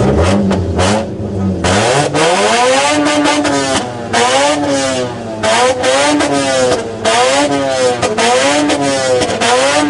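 Ford Mustang's engine being revved hard in a rev battle: a long climb in pitch, then repeated quick blips up and back down, about one a second.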